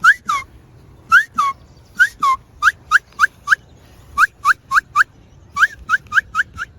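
A series of short whistled calls, each note a quick upward hook. They come first in pairs, then in quicker runs of four to six evenly spaced notes.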